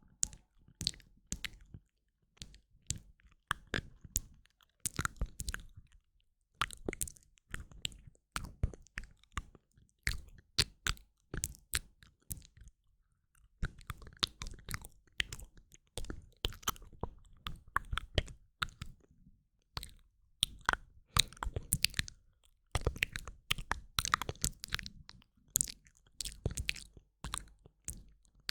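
Close-miked ASMR mouth sounds: wet lip and tongue clicks and smacks in quick clusters, with short pauses between them.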